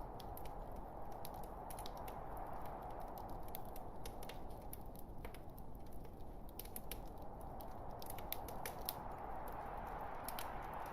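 Log fire burning in a fireplace: a steady soft rush of flames with irregular small crackles and pops from the wood.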